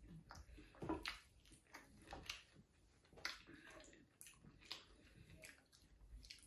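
Faint, scattered wet clicks and smacks of someone chewing a sauce-covered chicken wing.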